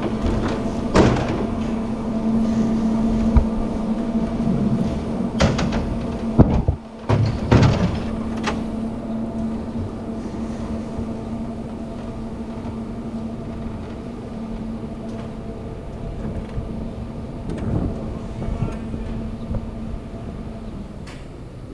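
Cableway machinery running with a steady hum, with a series of loud clanks and knocks in the first several seconds as the car moves through the station.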